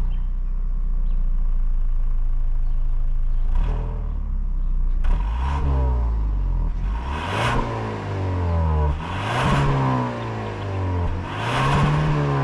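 Genesis GV70's 2.5-litre turbo four-cylinder under hard acceleration. The engine holds steady revs for the first few seconds, then climbs in pitch through the gears, dropping back at each upshift of the eight-speed automatic, about every two seconds.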